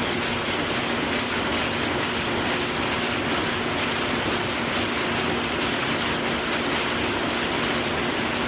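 Steady machinery noise: a dense, even clatter over a constant hum.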